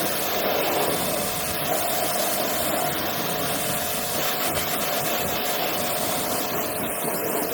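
A machine running steadily, an even rushing noise with a constant mid-pitched tone through it.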